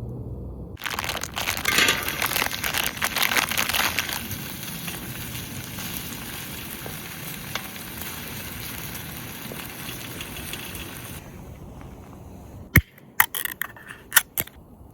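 Loud crackling sizzle that starts suddenly, is strongest for the first few seconds, then settles to a steady sizzle and cuts off abruptly. Near the end come a few sharp clicks.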